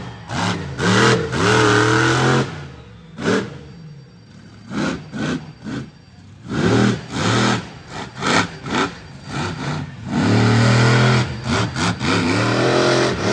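Monster truck engine revving hard in repeated throttle blips and longer full-throttle bursts, easing off for a few seconds in the middle.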